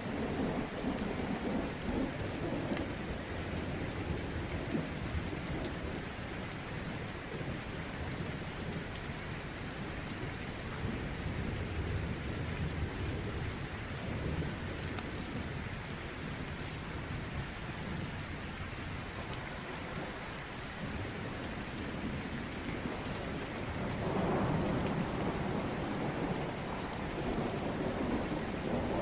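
Steady heavy rain falling, with thunder rumbling several times. The deepest, loudest roll comes near the end.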